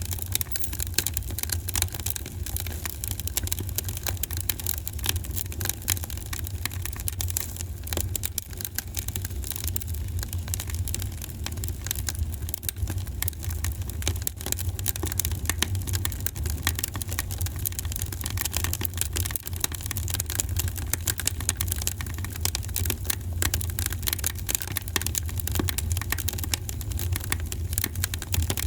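Wood fire in a fireplace crackling steadily: dense small snaps and pops over a constant low rumble.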